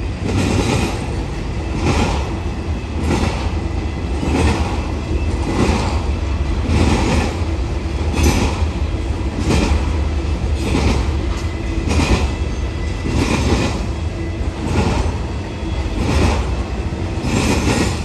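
BNSF intermodal double-stack freight train rolling past, its wheels clacking over the rail joints in a regular rhythm about once a second, over a steady low rumble.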